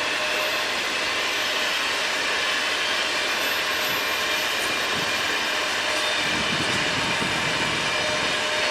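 Freight train cars rolling past on the rails: a steady rush of wheel and track noise with faint thin whining tones, and a low rumble swelling briefly near the end.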